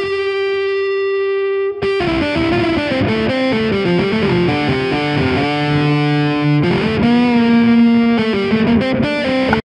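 Distorted electric guitar playing: one long held note for about two seconds, then a quick riff of changing notes with a few longer held ones.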